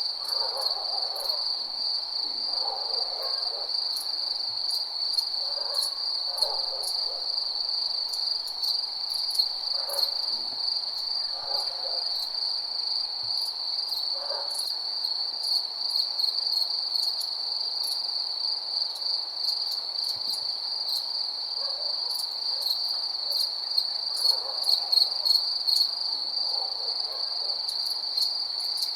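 Night chorus of crickets: a steady, unbroken high trill with scattered ticks above it. Softer, lower calls come and go underneath and are a little louder near the end.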